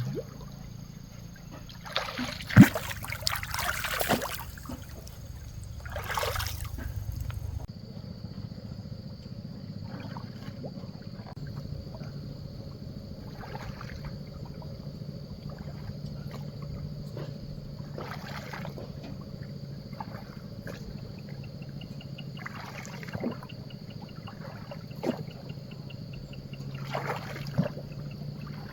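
Water splashing and trickling in strokes every couple of seconds, typical of a paddle working a bamboo raft across a lake. A single sharp knock about two and a half seconds in is the loudest sound.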